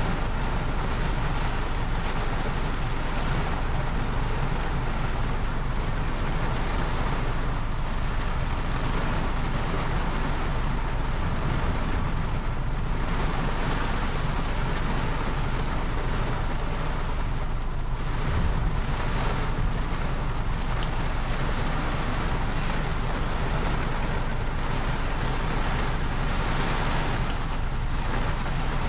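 Torrential rain falling steadily, heard from inside a parked car, with a constant low rumble beneath the hiss.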